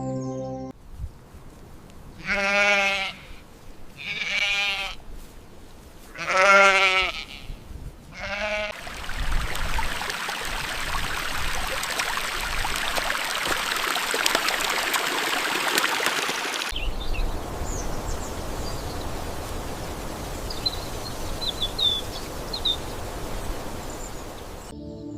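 Several loud, wavering bleats from livestock within the first eight seconds. They are followed by a steady rushing noise that drops off abruptly, then a quieter background with a few faint bird chirps. Soft ambient music fades out at the start and returns near the end.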